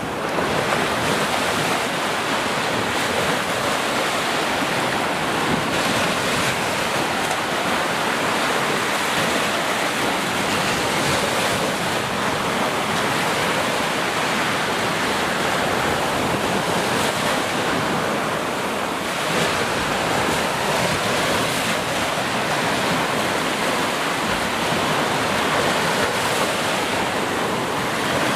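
Steady rushing water, an even wash of noise that keeps the same level throughout.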